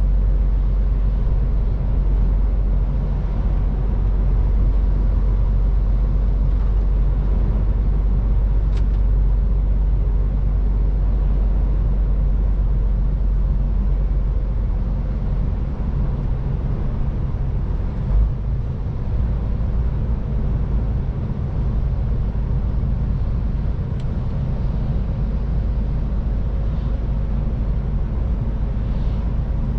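MAN TGX 18.510 semi-truck's straight-six diesel engine running steadily on the road, with tyre and road noise. There is one brief thump a little past halfway.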